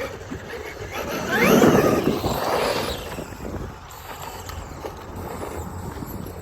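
Traxxas X-Maxx RC monster truck's electric motor revving, a whine that rises in pitch about a second in and is loudest for about two seconds, then the truck runs quieter.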